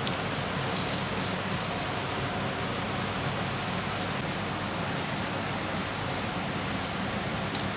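Aerosol can of black spray paint spraying in one long continuous burst, a steady hiss.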